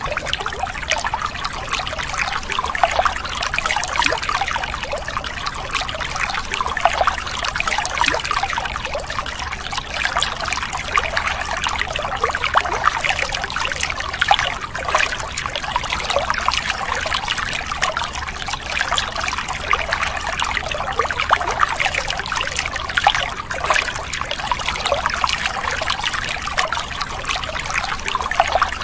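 A thin stream of water pouring down and splashing steadily onto wet sand and plastic toy vehicles, a continuous trickling splatter.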